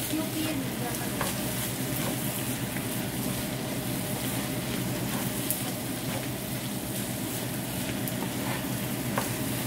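Chopped pork sisig sizzling in a frying pan while a wooden spatula stirs it, with scattered scrapes and taps of the spatula against the pan over a steady sizzle.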